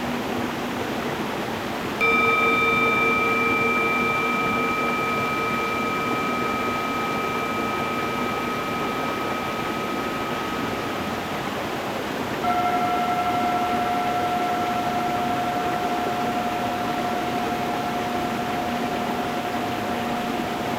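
Two singing bowls struck one after the other, about two seconds in and again about twelve seconds in, each ringing on with several overtones that fade slowly. Under them runs the steady rush of a stream flowing over stones.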